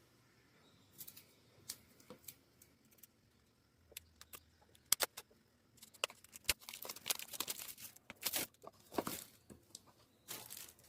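Hands working a fluffy slime, pulling and pressing it so it crackles and tears with irregular sticky clicks and pops, thickest a little past the middle.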